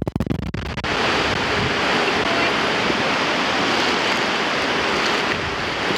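Strong wind rushing and buffeting the microphone. About a second in it settles into a loud, steady, even hiss.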